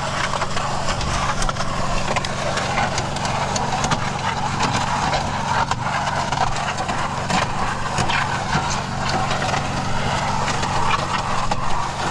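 An engine running steadily, with irregular clicks and scraping sounds over it.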